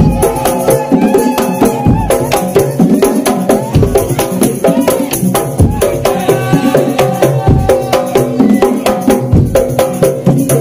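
Madurese daul (tongtong) music: a percussion ensemble of drums, gongs and jingling metal playing a fast, steady beat under a pitched melody.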